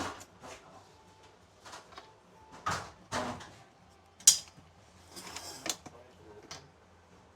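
Knocks, clacks and a short rattle of parts being handled while a garage door opener is put together, with one sharp clack about four seconds in standing out as the loudest.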